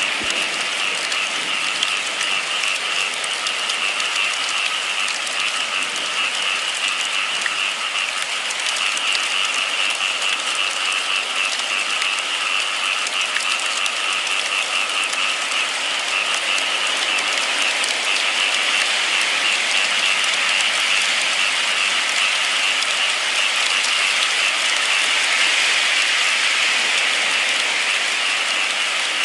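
Steady rain falling, a dense, even hiss that holds level throughout.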